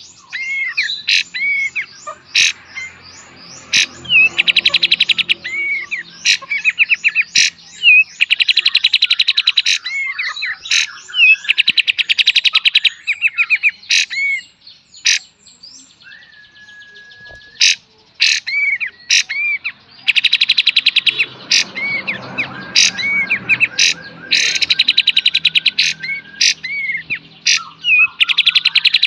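Kapas tembak songbird singing continuously: long, very rapid trills (the 'beset') alternating with sharp sweeping single notes (the 'tembak') and short hooked chirps, pausing briefly about halfway through.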